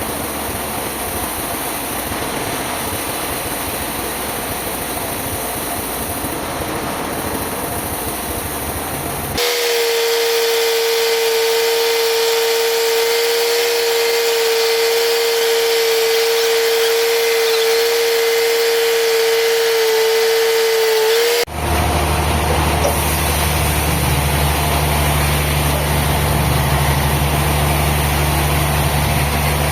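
Sawmill machinery in three sections that cut abruptly from one to the next: first a steady mechanical rush, then about twelve seconds of one steady high whine, then a low engine hum.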